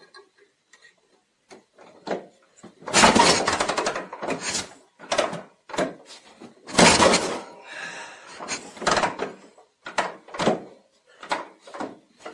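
Harley-Davidson Shovelhead V-twin being kick-started: after about three seconds of near quiet, a string of irregular loud kicks and coughs follows as the engine tries to fire but doesn't settle into running.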